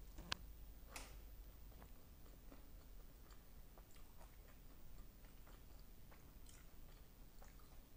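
Close-miked chewing of a bite of sauce-glazed fried chicken wing: quiet, scattered wet mouth clicks, with a sharper click about a third of a second in.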